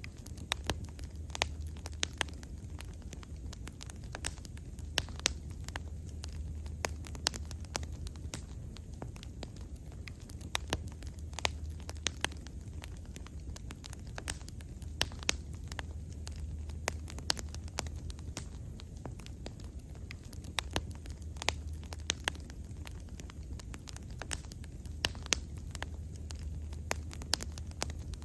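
Wood fire burning steadily, crackling with frequent sharp pops and snaps, several a second, over a low rumble of flame.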